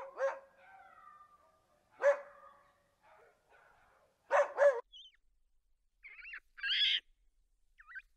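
A dog barking: one bark about two seconds in and a quick double bark a couple of seconds later, with fainter whining between. High-pitched squeals come near the end.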